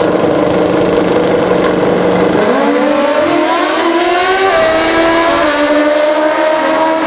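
Pro Street drag-racing motorcycle engine held at steady high revs, then pulling hard with its pitch climbing in steps through several gear shifts.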